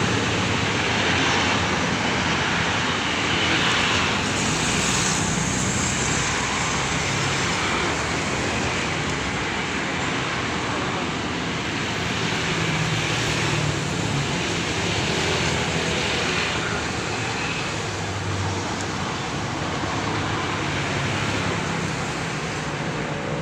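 Steady road traffic noise, with the sound of passing vehicles swelling and fading.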